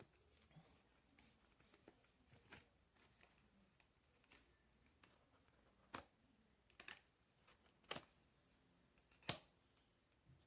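Near silence with a few faint, sharp clicks and taps of tarot cards being handled, the clearest four spread over the second half.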